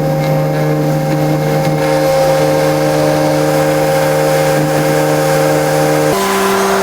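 Helicopter in flight: a steady, loud engine and rotor drone with a constant hum over a hiss. Near the end the hum jumps abruptly to a higher, different pitch.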